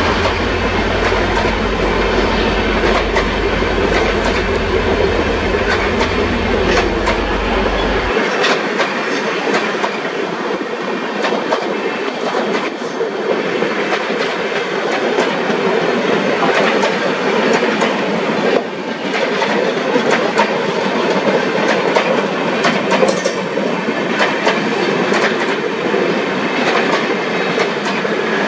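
Passenger train running at speed, its wheels clicking over the rail joints above a steady rushing rail noise. A low hum underneath stops abruptly about eight seconds in.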